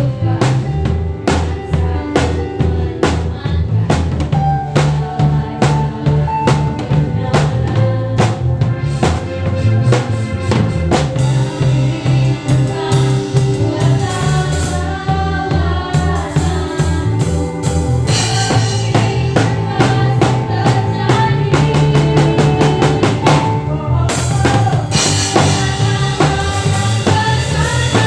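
A live band playing a worship song at a sound check: drum kit with kick and snare, bass guitar and sustained keyboard chords.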